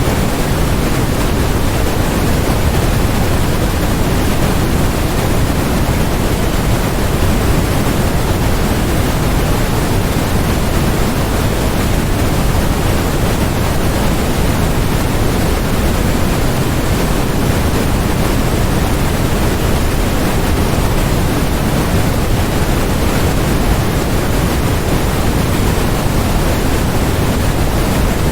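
Steady electronically generated noise: an even, unchanging rush with no events in it, heavier in the low end than in the highs, like pink noise.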